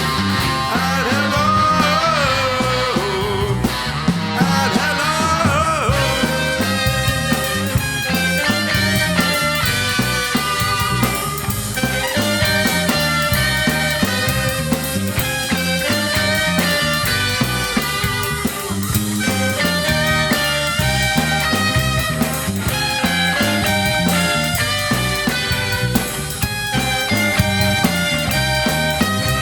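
Live rock band playing an instrumental passage with a steady beat; a lead line bends up and down in pitch for the first few seconds before the full band texture takes over.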